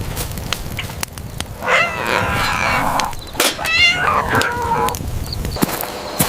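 Two short pitched animal calls, about a second each, one at about one and a half seconds in and one near the middle, over a low rumble with scattered clicks.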